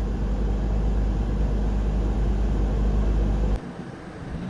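Infiniti G35's 3.5-litre VQ35DE V6 idling loud and steady with no exhaust fitted, warming up after a coolant refill. The deep rumble cuts off abruptly about three and a half seconds in.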